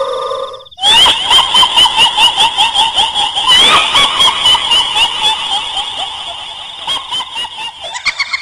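Kuntilanak ghost laugh sound effect: a shrill, high-pitched cackling female laugh. It starts about a second in as a rapid run of short repeated pulses and slowly fades toward the end.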